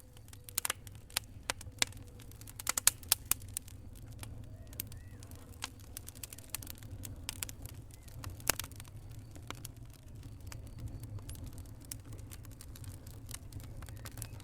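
Wood logs burning in a fireplace, crackling with irregular sharp pops over a low steady rumble. There is a quick cluster of louder pops about three seconds in and one loud pop past the middle.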